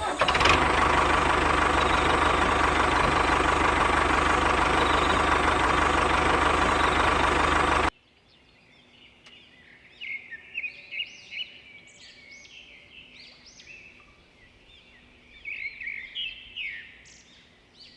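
A loud, steady machine running noise that cuts off abruptly about eight seconds in, followed by birds chirping.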